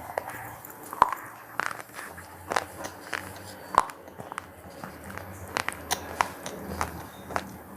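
Crunchy cheese-pizza-flavoured snacks being bitten and chewed close to the microphone: a run of sharp, irregular crunches, the loudest about a second in.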